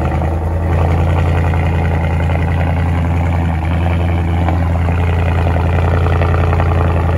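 Car engine idling steadily just after a cold start.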